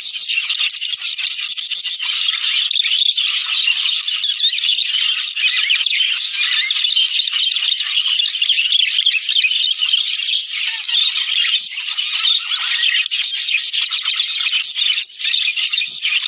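A flock of budgerigars chattering and warbling together, a dense unbroken mass of quick high chirps, played as a breeding-stimulation sound for budgies.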